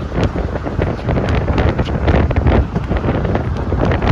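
Strong wind buffeting the microphone in gusts, a loud, low rumble that swells and eases.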